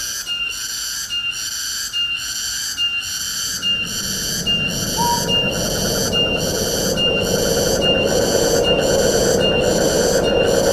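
Wind rushing through forest trees, swelling from about four seconds in. Under it, a high, pulsing call repeats steadily about twice a second, and a short rising note comes once about five seconds in.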